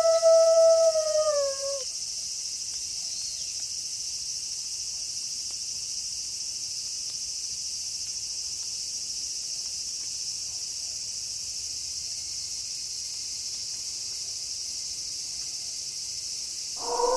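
A wolf howl holds one pitch, then drops and ends about two seconds in, leaving a steady high-pitched hiss of night ambience. Another howl begins right at the end.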